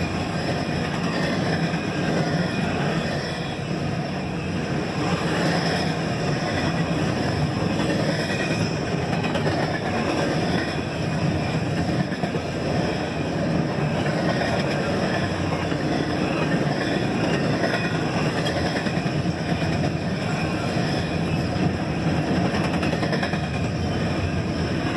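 CSX double-stack intermodal train's well cars passing at speed: a steady, continuous noise of steel wheels rolling on the rails.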